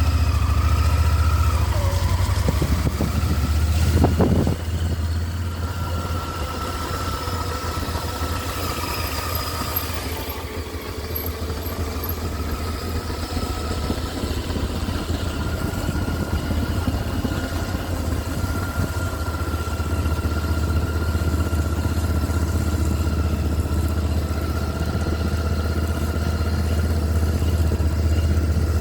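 Motorcycle engine running at low, steady revs, with a sharp knock about four seconds in.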